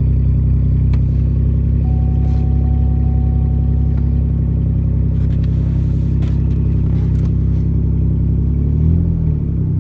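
Pontiac car engine running just after a cold start in below-freezing weather, loud and rough through a broken exhaust. Near the end its note wavers briefly.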